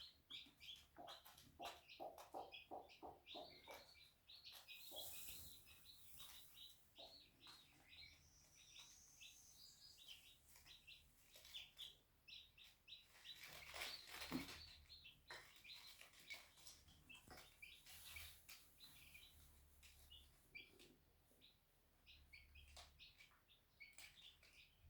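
Day-old chicks peeping in quick, short, high chirps, several a second, with a hen's low clucking in the first few seconds.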